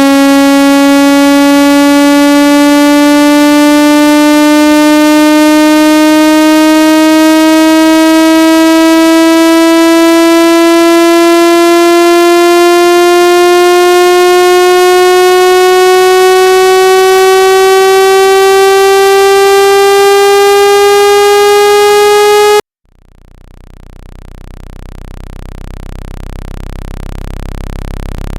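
Water-ejection test tone for a phone speaker: a loud, buzzy synthesized tone sliding slowly upward in pitch for over twenty seconds, then cutting off suddenly. After a moment's silence a low hum fades in and grows steadily louder.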